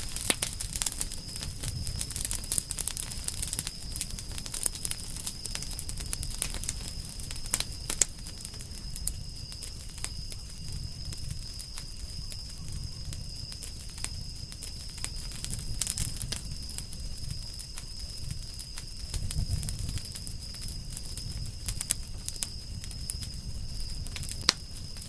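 Campfire of burning firewood crackling, with frequent irregular sharp pops and snaps over a low rumble.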